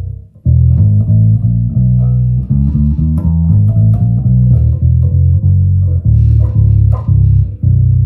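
Birdsong Hy5 passive 5-string electric bass with round-wound strings, played through an amp. A ringing low note is cut off, then a quick run of plucked notes follows. Near the end a new low note is struck and left to sustain.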